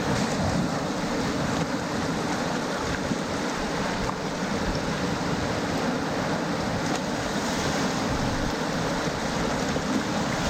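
Sea surf washing steadily, mixed with wind noise on the microphone.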